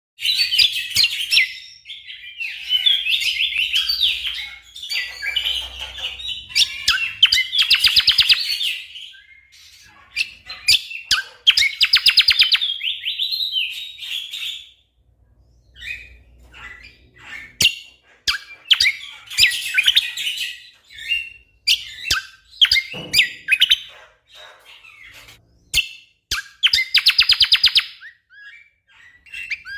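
Cucak kombo (kecial kombo) songbird singing in gacor form: dense bursts of rapid, high trilling notes, each a second or so long with short breaks between, mixed with sharp single clicking calls.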